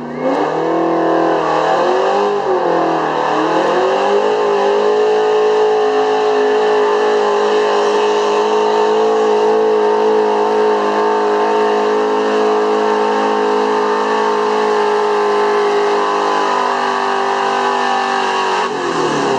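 Big-block V8 street truck under full throttle on a pulling run. The engine revs up hard and its pitch wavers for the first few seconds, then it holds a steady high rpm for about fifteen seconds before the throttle is cut near the end.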